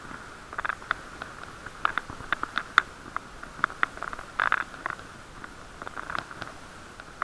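Irregular clicks and rattles, with a steady muffled hum, picked up inside a waterproof action-camera case on a moving bicycle.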